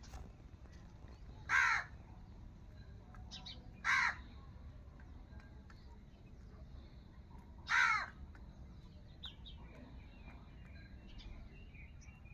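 Three short, loud bird calls, a few seconds apart, with faint chirping in between.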